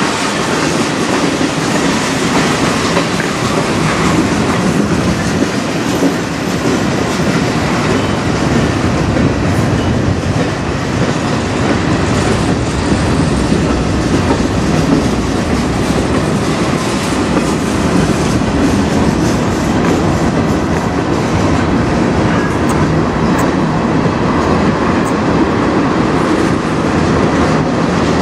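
A long CN freight train's cars rolling past: a steady, loud rumble and clatter of steel wheels on rail as covered hoppers and tank cars go by.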